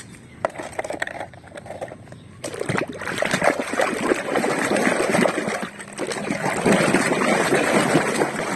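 Water splashing and sloshing as a toy car is washed in water. A few light knocks come first, and the splashing starts about two and a half seconds in.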